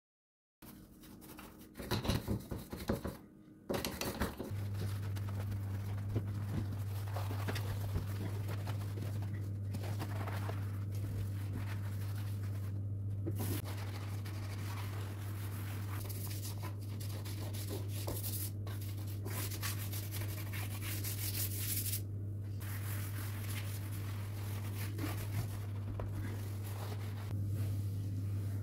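Kitchen cleaning sounds: objects being handled and wiped, with irregular clatter and rustling. A steady low hum from an appliance motor starts about four seconds in and keeps going underneath.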